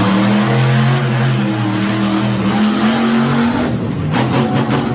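Monster truck engine running hard at high revs, its pitch climbing slightly before it drops off about three and a half seconds in.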